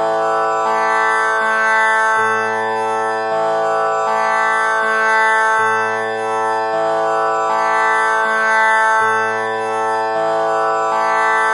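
Tanpura drone tuned to A, its four strings plucked one after another in a repeating cycle of about three and a half seconds, with each string ringing on into the next to make a continuous drone.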